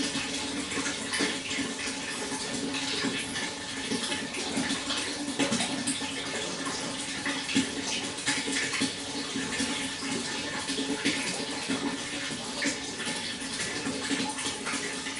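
Water running and splashing steadily, a continuous rush broken by many small irregular splashes.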